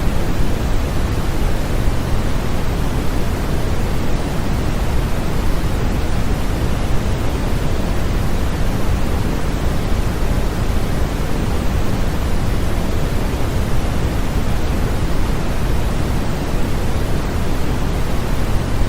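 Steady, unchanging sleep-aid noise, a constant even rush without any change or event, stronger in the lows than the highs.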